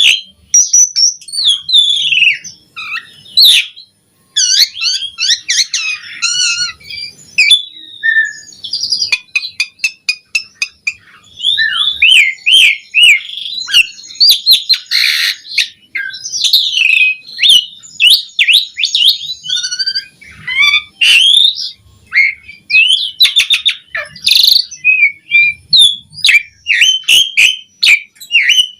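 Asian pied starling (jalak suren) singing without pause: a long, varied song of whistles that glide up and down, mixed with rapid chatter and sharp clicks.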